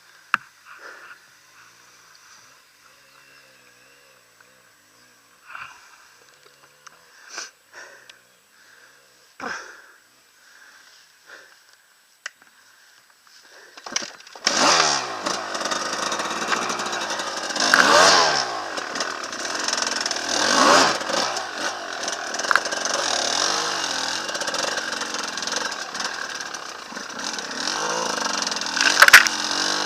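A few faint scattered knocks, then about halfway through an enduro motorcycle engine comes in suddenly and runs loud, revving up and down repeatedly.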